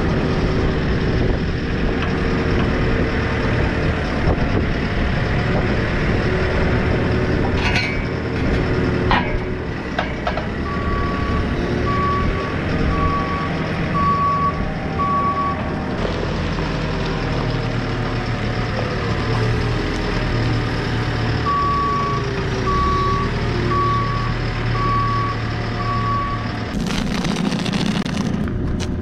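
Diesel engine of a farm machine running, its pitch shifting as it works, with its reversing alarm beeping about once a second in two spells of about five beeps each. A few sharp clicks come shortly before the first spell.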